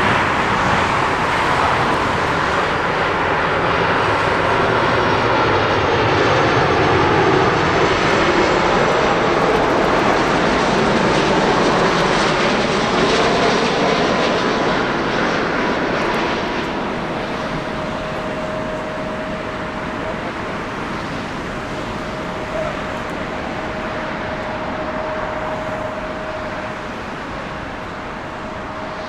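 Jet airliner's engines roaring as it passes close by, with a falling pitch, loudest for the first half. About sixteen seconds in it fades to a quieter roar with a steady whine.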